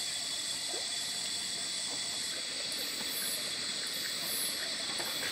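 Night insect chorus: a steady high-pitched buzzing, joined about three seconds in by a higher, pulsing trill repeating about twice a second.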